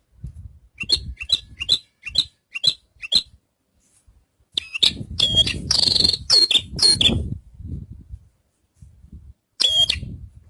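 Javan bushlark (branjangan) singing: a run of six short, evenly spaced high chirps, then a dense burst of rapid, varied song phrases a couple of seconds long, and one more short phrase near the end. Low rumbling noise sits under the louder phrases.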